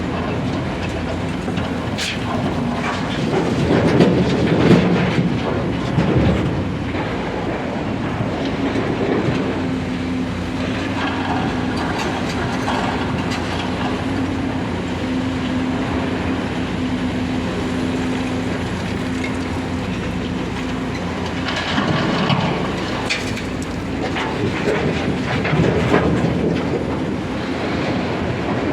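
Heavy diesel engine running steadily while a Volvo EC210 excavator loads boulders into a steel tipper truck body, with two louder spells of rough clattering rumble, a few seconds in and again near the end, as rock is dropped into the bed.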